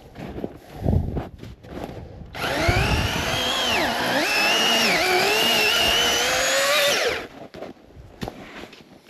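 Masterforce 80-volt battery chainsaw running for about five seconds from about two seconds in, a motor whine that dips twice in pitch as the chain bogs in the wood, then climbs and stops abruptly. Footsteps scuffing through brush before it starts.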